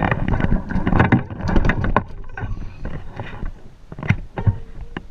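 Wind buffeting and handling noise on a fishing-rod-mounted GoPro, with irregular knocks and rustles that are loudest in the first two seconds, then quieter scattered clicks.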